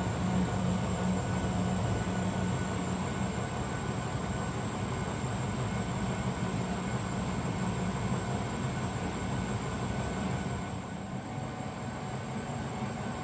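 Zanussi DL22 front-loading washing machine running on a 90 °C boil wash: a steady low motor hum with faint whining tones, easing off a little about ten seconds in.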